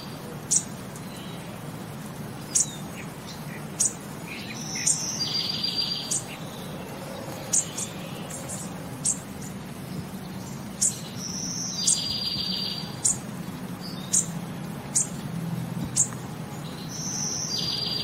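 Birds chirping: short high chirps about once a second, with a longer buzzy trilled phrase about every six seconds.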